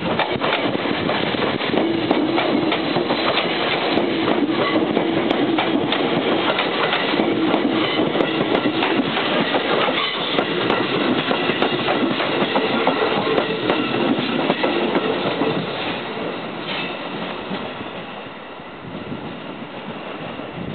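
JR Central 311 series electric multiple unit pulling into a station platform, its cars running close by with wheels clacking over the rail joints and a steady hum under the running noise. The sound grows quieter over the last few seconds as the train slows.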